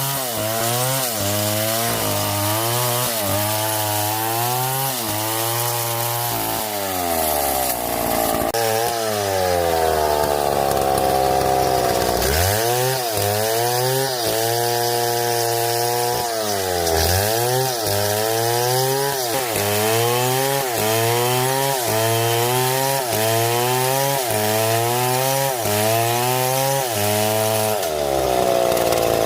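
Chainsaw cutting through palm wood. The engine note repeatedly dips under load and picks up again, about once every two-thirds of a second, with one longer steady run at high speed midway. Near the end it settles to a steadier, lower note.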